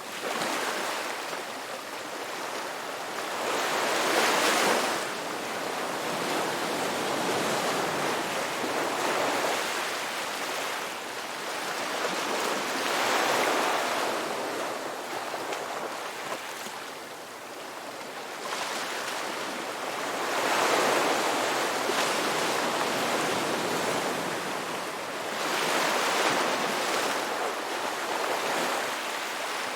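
Ocean waves breaking and washing on the shore, a steady surf noise that swells with each wave every four to six seconds.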